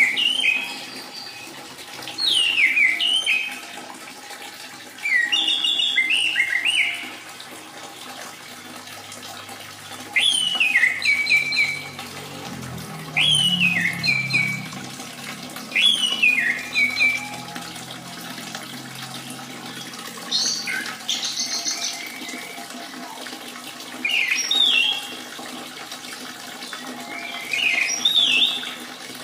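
Orange-headed thrush song: short phrases of falling whistled notes, repeated about every three seconds, over a steady trickle of running water. It is a lure recording used to coax a caged thrush that has gone quiet into singing.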